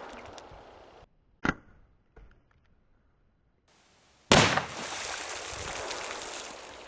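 Gunshots fired at an exploding target: a sharp crack about a second and a half in, then a louder shot about four seconds in. The second shot is followed by a long echo that takes more than two seconds to die away.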